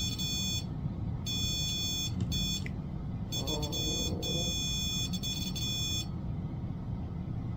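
Electronic alarm tone from a ghost-hunting trigger device, a steady high beep that sounds in stretches: about half a second, then about a second, a short blip, then nearly three seconds with brief breaks.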